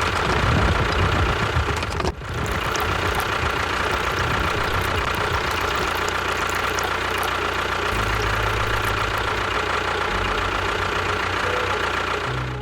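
An engine running steadily, with a constant high whine over a low rumbling beat. It breaks off briefly about two seconds in, then carries on.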